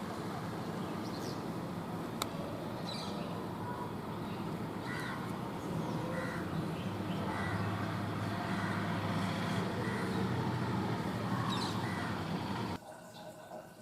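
Birds giving repeated short calls over a steady low rumble, which grows louder about halfway through. All of it drops away abruptly about a second before the end.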